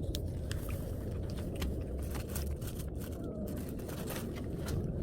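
A cat chewing dry food, a scatter of sharp crunches and clicks over a steady low rumble.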